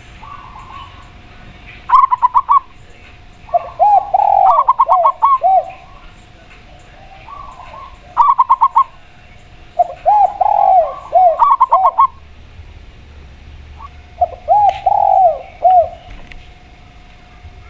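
A spotted dove and a zebra dove cooing in turn: short phrases of quick arching coos, one bird pitched higher than the other, about six phrases in all with pauses between.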